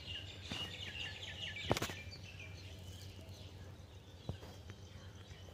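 Faint outdoor ambience with small birds chirping: a quick run of short chirps in the first two seconds, fainter ones after. A sharp click a little under two seconds in.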